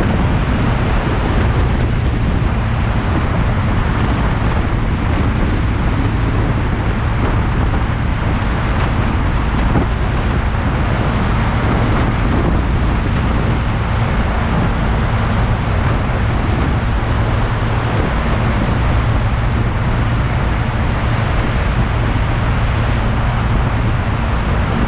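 Motorcycle running at a steady speed while being ridden: a constant low engine hum under steady wind and road noise.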